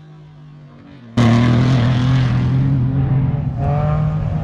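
Off-road race vehicle's engine running. It is faint at first, then abruptly loud and close from about a second in, with a steady low drone and gritty noise.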